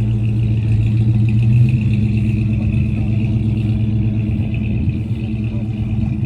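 Car engine running steadily close by, a low even hum that swells slightly about one and a half seconds in.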